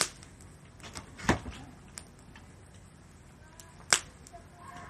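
Wood fire crackling, with three sharp pops: one right at the start, one about a second in and one near the end, and small crackles in between.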